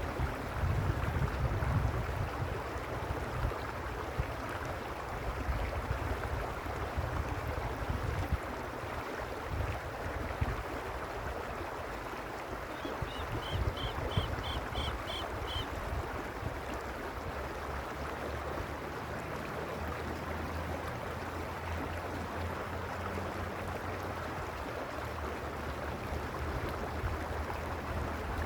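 Mountain creek flowing: a steady rushing of water over stones, with low rumbling that is gustier in the first several seconds. About halfway through, a short run of about seven quick, high, evenly spaced chirps.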